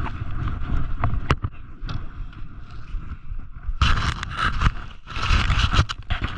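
Low rumbling buffeting on the camera's microphone with a few sharp clicks, then, about four seconds in, a loud scraping hiss in uneven surges as a snowboard slides over snow.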